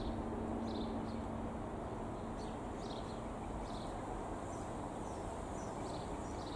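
Small birds chirping repeatedly in short high notes, about once or twice a second, over a steady low rumble; a faint steady hum holds for the first couple of seconds and then fades.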